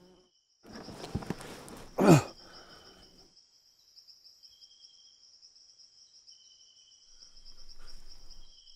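Steady high-pitched insect trilling, like crickets, throughout. About a second in comes a rush of wind, ending in a brief loud sound that falls quickly in pitch.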